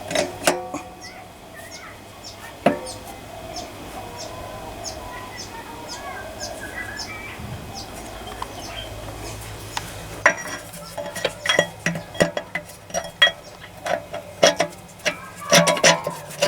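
Metal tools and engine parts clinking and knocking as they are handled: a few knocks at the start, then a rapid run of clinks through the last six seconds. A faint, regular high ticking about twice a second runs behind, with faint chirps.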